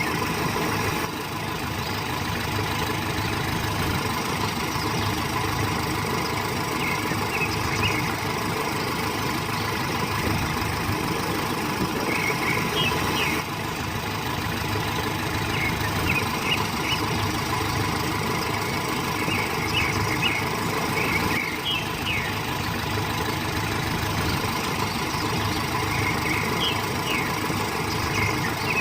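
Steady truck engine running at an even idle, with clusters of short, high squeaky chirps every few seconds.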